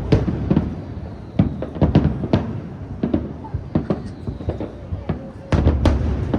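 Aerial fireworks shells bursting: an irregular run of sharp bangs and crackles, with a heavy boom about five and a half seconds in.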